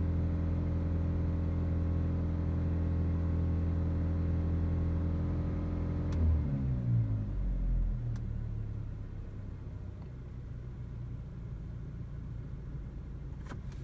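Four-cylinder engine of a 2015 Chevy Malibu held at steady raised revs. About six seconds in it drops back down over a couple of seconds and settles into a lower, quieter idle.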